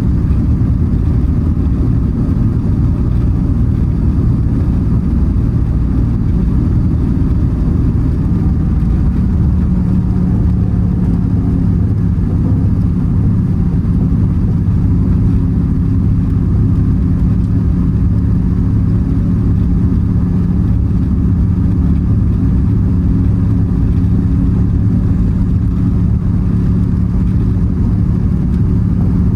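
1996 Chevrolet Camaro Z28 SS's 5.7-litre LT1 V8 idling steadily on a cold start, a low, even exhaust note with no revving. The idle pitch drops slightly about ten seconds in.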